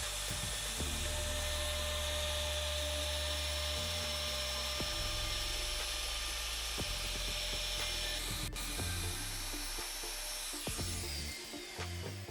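Electric wood-milling tool running at a steady high whine as it cuts into a wooden table leg, its motor winding down about eleven seconds in. Background music plays underneath.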